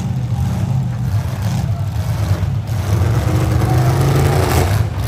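Full-size V8 demolition derby car engines running under load together, a continuous low rumble that gets louder about three seconds in.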